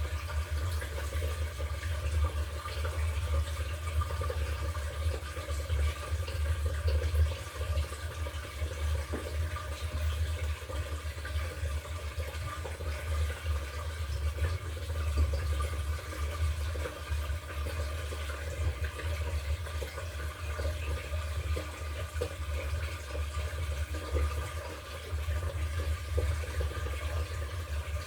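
LG top-loading washing machine running with water in the tub: a steady rush and churn of water over a low, wavering motor hum.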